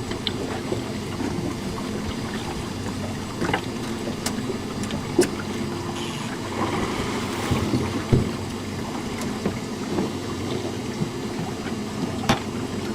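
A small boat's outboard motor running steadily with a low hum, with scattered light knocks and clicks from gear on the boat.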